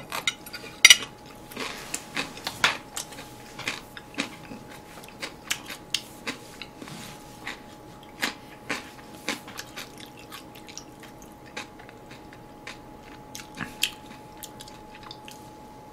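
Close-miked chewing and crunching of Korean side dishes, a run of irregular crisp crunches and mouth clicks, a few of them much louder.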